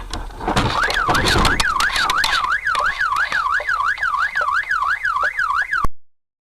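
A burst of loud knocks and clatter, then a car alarm wailing, its tone sweeping up and down about two and a half times a second, until it cuts off suddenly near the end.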